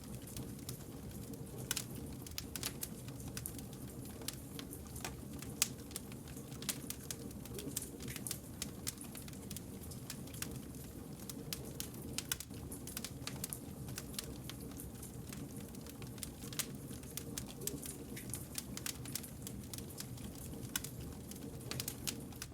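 Wood fire burning and crackling: many sharp pops and snaps over a steady low rumble of the flames.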